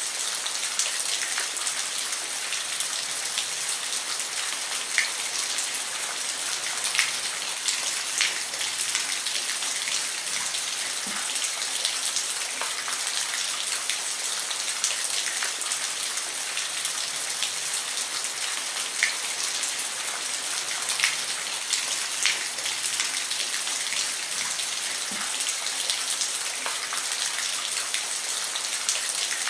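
Steady rain falling on a roof: a constant hiss with the sharp ticks of single drops striking here and there.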